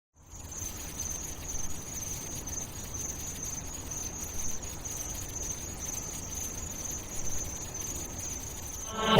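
Crickets chirping in a steady high-pitched trill over a low rumble, ambient sound laid over a music video; a pop track comes in loudly near the end.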